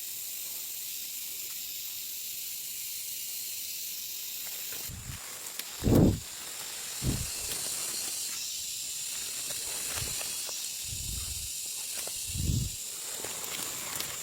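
Steady high hiss of forest outdoor ambience, with about six dull low thumps; the loudest comes about six seconds in.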